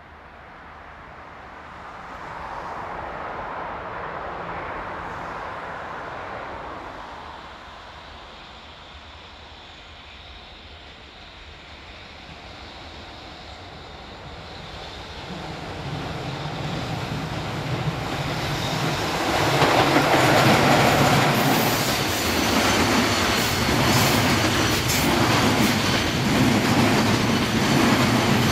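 JR Freight EF66 electric locomotive hauling a container freight train approaches and passes close by, its running noise rising steadily from about halfway, after a fainter swell of noise a few seconds in. Once the locomotive is past, the loaded container wagons go by loudly with a regular clickety-clack of wheels over rail joints.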